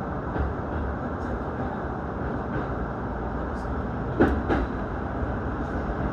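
Running noise of an electric commuter train heard from inside the carriage, a steady low rumble with light ticks. About four seconds in, two close clunks come as the wheels pass over a rail joint.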